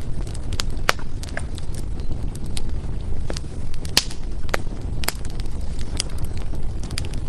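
Firewood burning in a fireplace: sharp crackles and pops at irregular intervals over a steady low rumble of the flames, the loudest pops about a second and about four seconds in.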